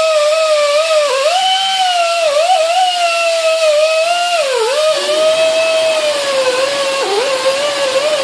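A high-speed electric hand tool runs continuously with a loud whine that dips in pitch each time it is pressed against the metal, smoothing down dings on a steel vise part. From about five seconds in, a rougher grinding hiss of the tool working the metal joins the whine.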